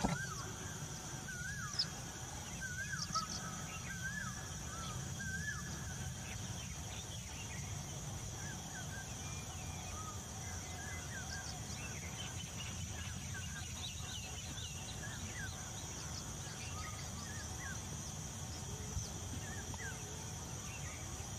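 Birds calling outdoors. For the first few seconds a short whistled call rises and falls about once a second, then gives way to scattered, fainter twittering. A steady high-pitched drone and a low rumble run underneath.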